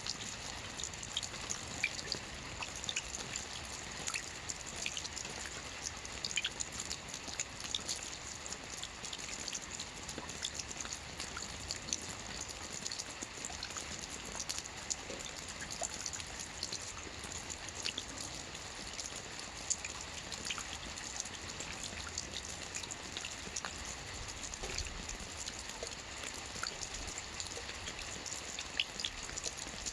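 Steady rain falling on a lake's surface, a dense patter of drops, with many individual drops ticking sharply throughout.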